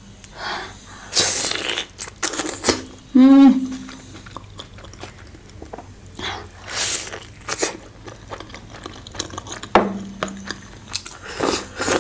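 Close-miked eating of a large steamed momo: wet bites, slurps and chewing in irregular bursts, with a few brief hums from the eater.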